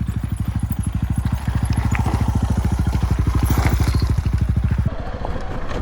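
Motorcycle engine running with a fast, even pulsing exhaust beat. About five seconds in the beat drops away and gives way to a rougher, quieter engine sound.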